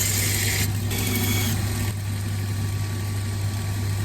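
Water-cooled sharpening machine's motor running with a steady hum while an axe edge is ground against it, giving a high grinding hiss that breaks off briefly and then fades about halfway through as the blade is eased off.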